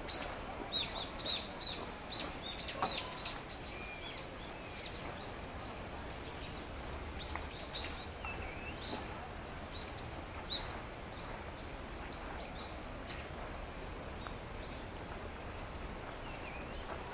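Small birds calling with many short, high chirps, thick for the first few seconds and then thinning to scattered calls, over a steady background hiss.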